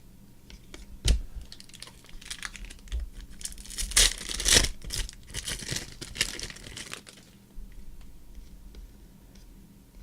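Trading-card pack wrapper being torn open and crinkled, the crackling loudest in the middle and ending in a few small clicks, with a single knock about a second in.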